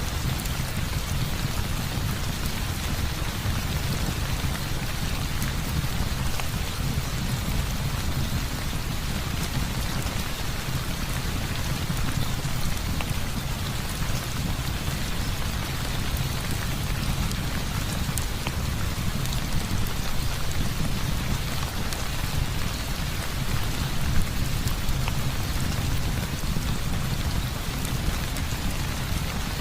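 Heavy rain falling steadily, with a deep continuous rumble underneath and scattered small clicks of drops.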